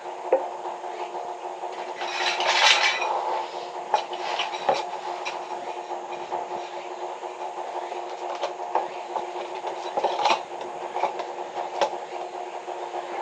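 Metal and hard objects clinking and scraping, loudest in a scrape about two to three seconds in, with scattered knocks after. A machine hums steadily underneath.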